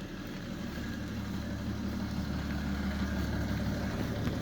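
BMW 335d's twin-turbo diesel straight-six running, heard as a steady low drone of engine and road noise that grows slowly louder.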